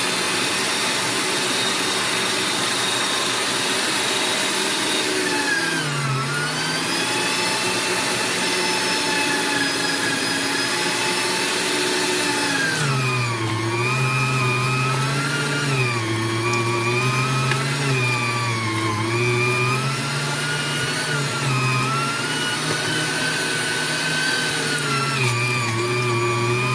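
AARTVARK TEES electric meat grinder's motor running as beef is fed through it. The pitch sags several times under the load of each piece and then recovers. With the blade now fitted correctly, it is grinding properly.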